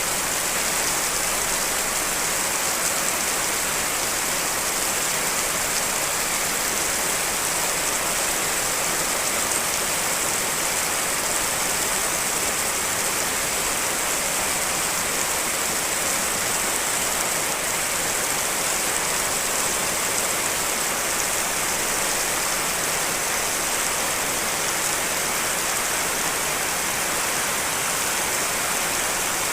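Steady rain, mixed from several rain recordings layered together: an even, unchanging hiss.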